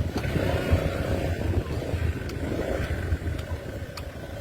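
Motorbike running on a ride along a rough dirt road, an uneven low rumble throughout.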